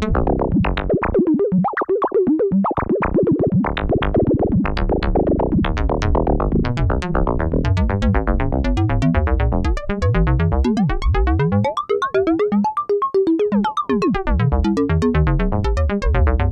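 Analog percussion synthesizer playing a fast sequenced drum pattern: rapid percussive hits with short, pitched, resonant tones that step up and down in pitch, over low kick-like thumps that drop away for a few seconds past the middle.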